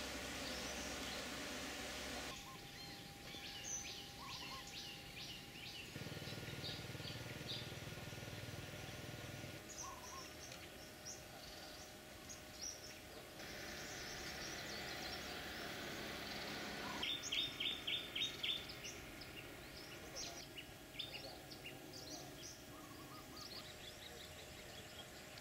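Small birds chirping and calling over a steady outdoor hiss that changes abruptly several times, with a quick run of about six loud, sharp chirps about two-thirds of the way through.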